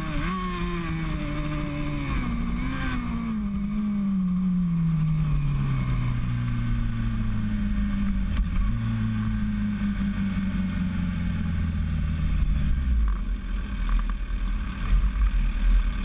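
Motorcycle engine decelerating, its pitch falling steadily for about thirteen seconds, after which the engine note fades and a low rumble remains.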